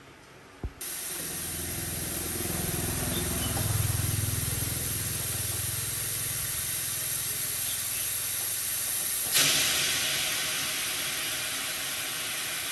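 A loud, steady hiss of compressed air that starts suddenly about a second in, just after a short knock, with a low mechanical hum underneath. The hiss turns brighter and louder about nine seconds in, then cuts off near the end.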